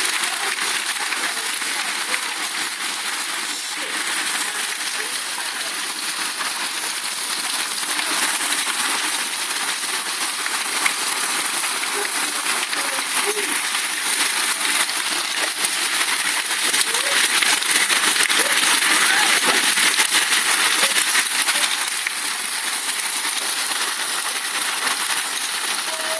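Heavy hail falling: a dense, steady clatter of countless small impacts, swelling louder for a few seconds about two-thirds of the way through.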